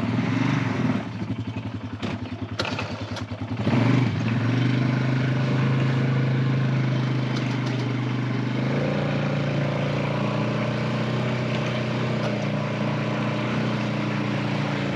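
Engine of a snow-clearing machine running, uneven with a few knocks in the first few seconds, then steady. Its note shifts about nine seconds in.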